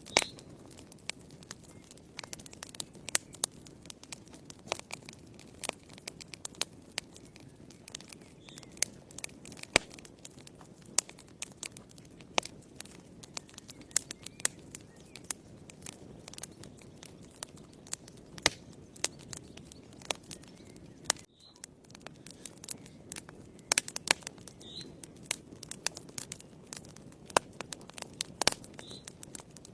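Wood fire burning in a fireplace: irregular sharp crackles and pops over a low, steady rush of the flames. The sound drops out briefly about two-thirds of the way through.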